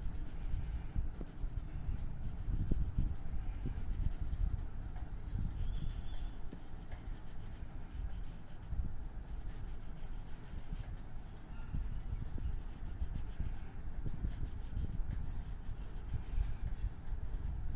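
Drawing or colouring tool rubbing on paper in repeated strokes.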